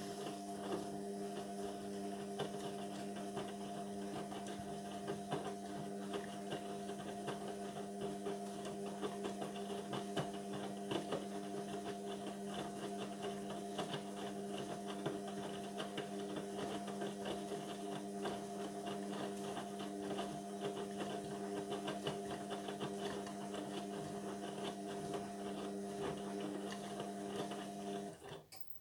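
Indesit washing machine running with a steady, even hum and a light rattle. The hum stops suddenly near the end.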